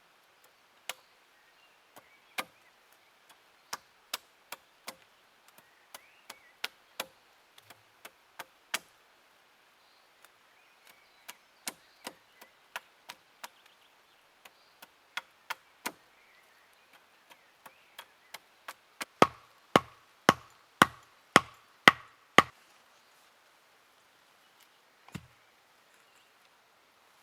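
Axe chopping wood: scattered single strikes, then a quick run of about seven heavier blows, roughly two a second, about two-thirds of the way through.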